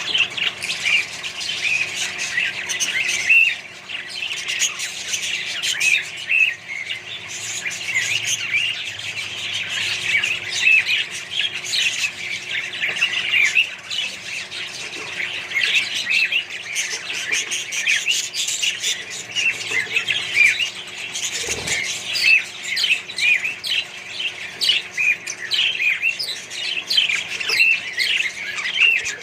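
A colony of budgerigars and other small parrots chattering and squawking together, many overlapping short chirps and calls without a break.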